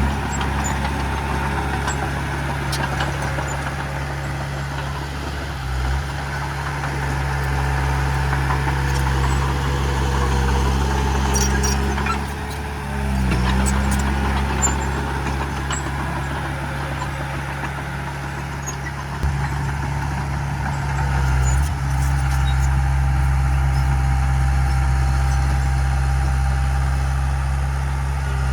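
Diesel engine of heavy earthmoving machinery running steadily under load, its low note dipping briefly a few times as the load changes, with faint clanks now and then.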